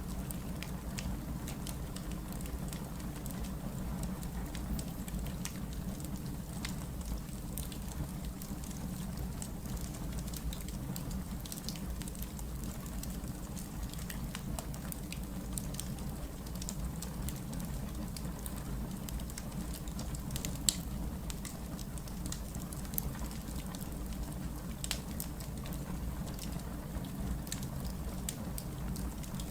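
Wood fire burning, with a steady low rumble under scattered crackles and one sharp pop about twenty seconds in.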